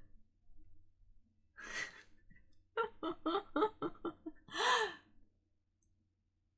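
A female voice gasping and breathing without words: one breathy gasp, then a quick run of short voiced breaths, ending in a louder drawn-out cry that rises and falls in pitch.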